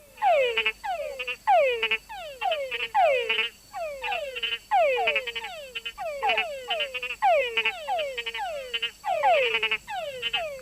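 Several túngara frogs calling over one another: a run of falling whines, about two a second, many ending in a few short chucks.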